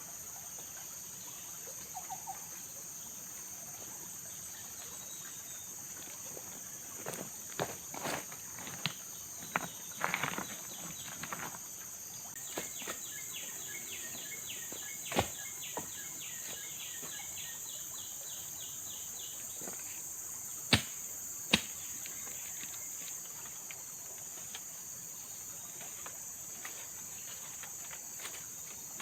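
Steady high-pitched shrilling of tropical forest insects, with scattered knocks and rustles. About halfway through, a rapid run of ticks goes on for several seconds, and two sharp knocks come close together near the end.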